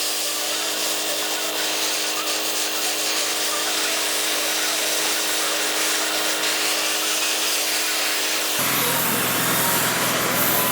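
Small bench lathe running with a steady motor hum under the hiss of metal being cut. About eight and a half seconds in the sound changes, and a lower rumble comes in.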